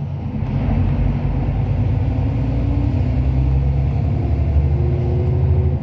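Steady low rumble of a Hyundai Universe Space Luxury coach's engine and road noise, heard from inside the cabin while under way; a faint steady whine joins in during the second half.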